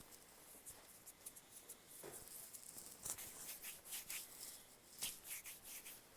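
Faint, irregular rustling and scratching made of many small clicks, a few a little louder about two, three and five seconds in.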